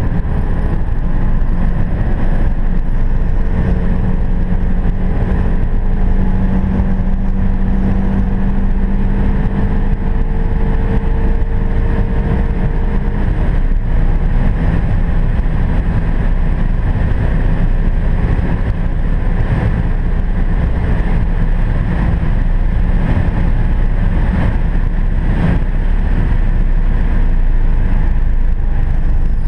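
Nissan 350Z's 3.5-litre V6 pulling at full throttle at high motorway speed, heard from inside the cabin over heavy wind and road noise. The engine note climbs slowly, steps down in pitch about 13 seconds in as it shifts up a gear, then climbs again.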